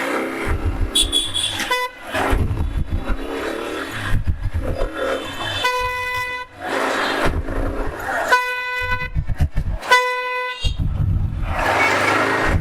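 A vehicle horn sounding in three blasts of under a second each in the second half, with a shorter toot near the start. Under it runs a low road and engine rumble.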